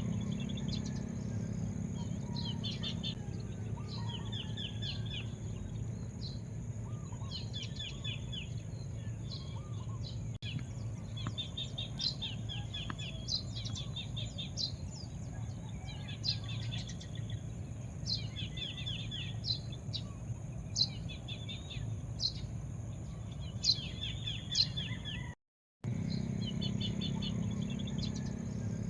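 Birds chirping over and over in short, quick trills, with a steady high-pitched hum and a low background rumble underneath. The sound cuts out for about half a second near the end.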